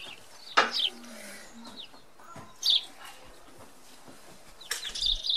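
A small bird chirping in short, high calls spaced apart. The loudest chirp comes about half a second in, and a quicker run of chirps follows near the end.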